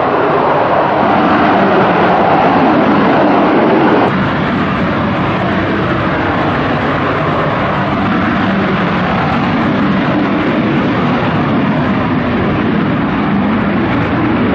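Military jet engine roar, loud and steady, with a sudden change in level and tone about four seconds in.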